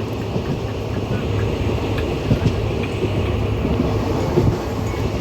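Passenger train running: a steady low rumble of the moving train with a few faint knocks.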